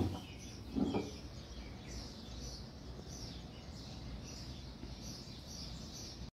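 Faint, repeated bird chirps over quiet background noise, with one short low sound about a second in.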